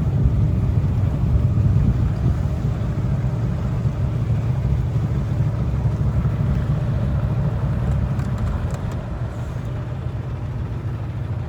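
Boat engine running steadily under way, a low drone that eases slightly about eight seconds in.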